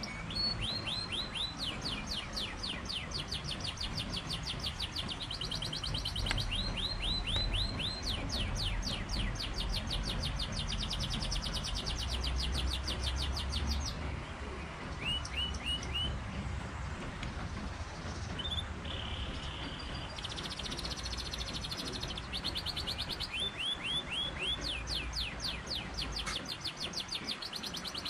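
Songbirds singing: phrase after phrase of rapid, high chirps, many notes a second, over a low background rumble.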